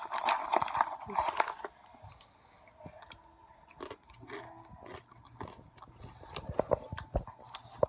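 A person biting into and chewing a crunchy honey barbecue snack mix with little pretzels in it. The crunching is loudest in the first second and a half, then goes on as softer, scattered crunches.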